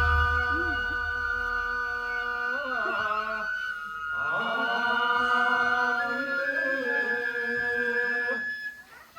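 Nenbutsu chant of a kenbai sword dance: voices hold long, drawn-out notes with a few slow bends in pitch, and the sound fades out near the end.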